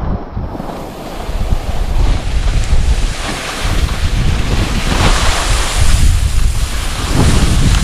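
Strong wind buffeting the microphone: a loud, constant low rumble with surges of hiss that rise and fall.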